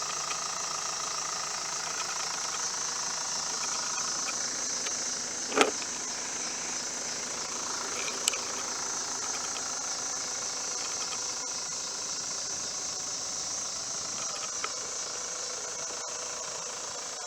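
2001 Mitsubishi Fuso FE145's 4.9-litre turbo diesel engine idling steadily, running quietly with nothing out of the ordinary: a sign of an engine in good health. A single brief knock about five and a half seconds in and a small click a few seconds later.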